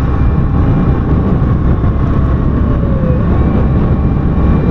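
Motorcycle on the move: a loud, steady rush of wind and road noise over the rider's microphone, mixed with the engine's running, with faint steady whines above it.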